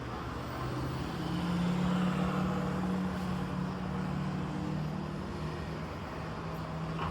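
Motor vehicle engine running with a steady drone that grows louder about a second in and then eases off.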